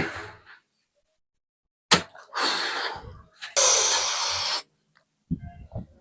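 A person exercising and breathing out hard in two noisy, pitchless bursts, the second longer and louder, after a short click; a few low knocks follow near the end.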